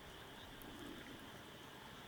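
Faint outdoor night ambience: a steady high-pitched insect drone with a few faint scattered ticks.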